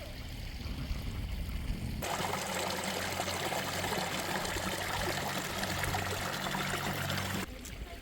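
Running water, a steady rush that starts abruptly about two seconds in and stops abruptly shortly before the end, with a low steady hum beneath it.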